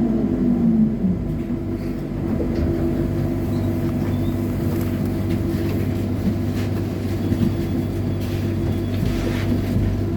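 Trolleybus ride: the electric traction motor whine falls in pitch during the first second as the trolleybus slows, then gives way to a steady electrical hum with body rumble and a few light knocks.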